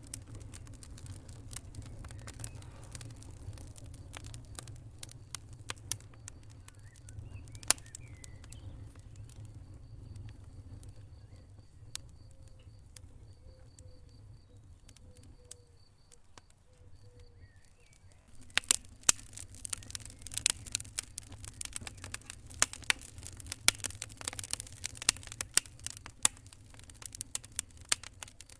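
Wood fire burning in a fireplace: a low steady rumble of flames with scattered crackles and sharp pops. The crackling grows denser and louder about two-thirds of the way through.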